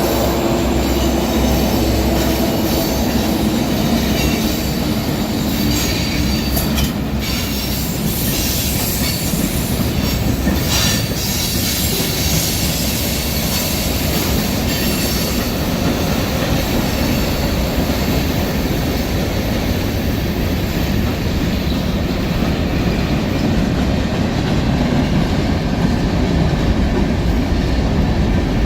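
Union Pacific freight train rolling past: a steady rumble and rattle of wheels on rail with squealing wheels. The high squeal and clatter are strongest in the first half and ease off in the second.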